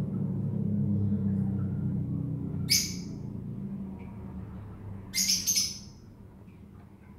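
A bird chirping twice in short bursts, about three seconds and five seconds in, the second burst a little longer. Under it, a low steady hum fades away.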